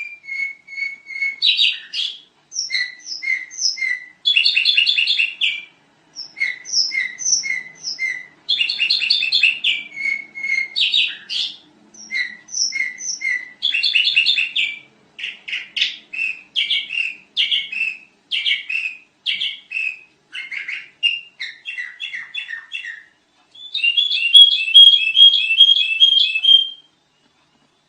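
Sooty-headed bulbul (kutilang) singing a long, loud series of rapid, varied chattering phrases with short pauses between them, stopping about a second before the end.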